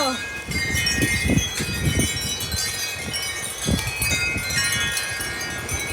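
Wind chimes ringing nonstop, many overlapping high tones jangling as strong dust-storm wind gusts shake them, with gusts rumbling on the microphone underneath.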